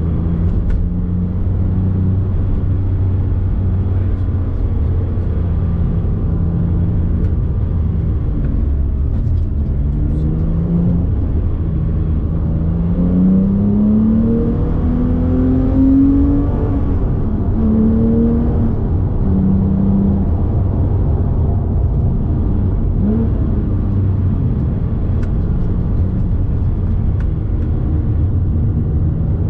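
Porsche 997 GT3 RS flat-six engine heard from inside the cabin, running at a steady drone while driving. About halfway through, the revs climb in several short rising runs, then ease back to a steadier note.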